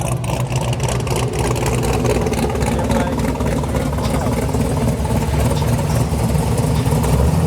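Muscle-car engines running with a steady low exhaust note, under a crowd's talk.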